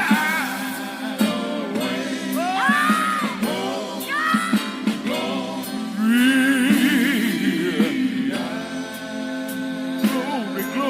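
Gospel singing with instrumental backing: a lead voice sings sliding, wordless runs twice, over steady held chords and short percussive hits.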